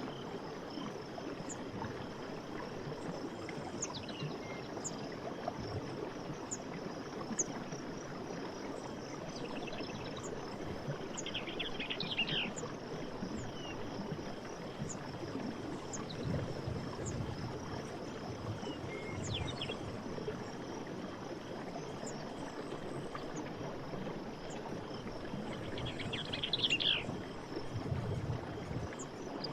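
Forest soundscape: a steady rush of running water, under a faint high, steady insect drone with short high chirps about once a second. Bird calls break in three times.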